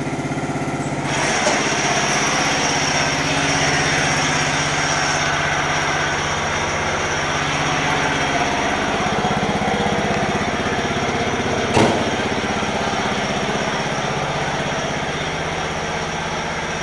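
John Deere 130 lawn tractor's Kawasaki FC290V single-cylinder engine running steadily; about a second in, a loud harsh noise with a high whine joins as the clutch is let out, a noise the drive is supposed to make but that is really loud and annoying. A single sharp knock sounds about two-thirds of the way through.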